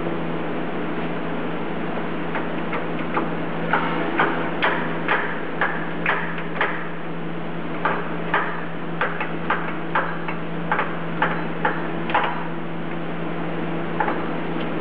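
Repeated sharp knocks on metal, about two a second for several seconds, as the keyed shaft is driven into the Bridgeport 2J front variable-speed pulley and its bearings. A steady hum runs underneath.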